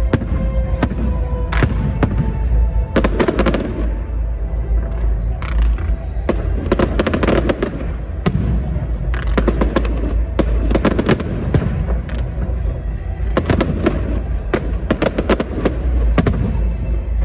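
Fireworks display going off in rapid volleys of sharp bangs and crackling bursts, with music playing underneath.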